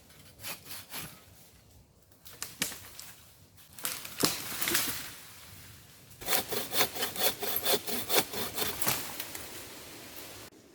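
Hand saw cutting through wood: a few uneven strokes at first, then from about six seconds in a steady back-and-forth run at roughly four strokes a second that stops abruptly near the end.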